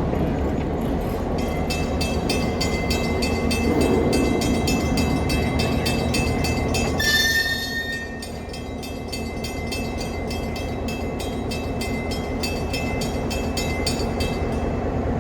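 EMD GP9U diesel locomotive engine running, with a bell ringing in rapid, even strokes from about a second and a half in until near the end. A short horn note sounds about seven seconds in.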